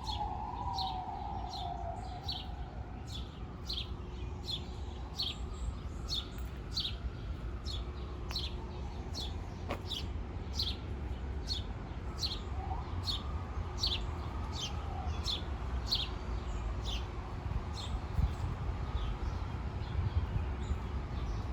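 A bird calling with a short, falling chirp, repeated steadily about once every three-quarters of a second and stopping about three-quarters of the way through. Underneath are a steady low city rumble and a faint wail that slowly rises and falls.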